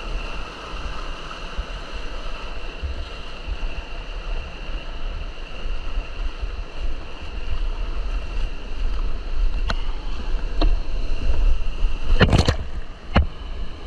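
Steady rush of a fast mountain stream running high after rain, with low wind rumble on the microphone. A few sharp knocks come in the last few seconds, one clearly louder than the rest.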